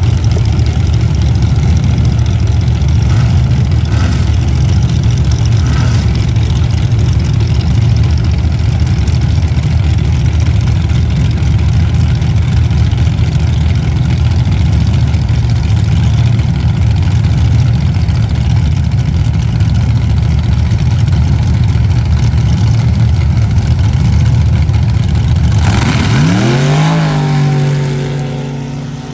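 Motor vehicle engine running with a loud, steady rumble and road or wind noise. About 26 seconds in, the engine note sweeps down and settles into a steady idle as it gets quieter.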